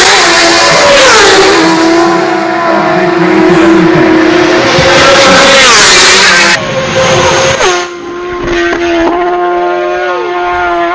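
Racing motorcycle engines at high revs: the pitch sweeps down and settles, then steps between levels. The sound changes abruptly about two-thirds through, after which one engine holds a steady high pitch with a couple of drops like gear changes.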